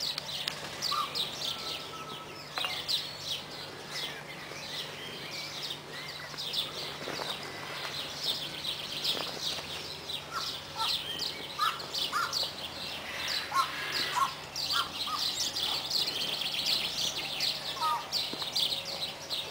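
Many small birds chirping and calling together in a dense, continuous chatter of quick high chirps, with a few lower whistled notes now and then.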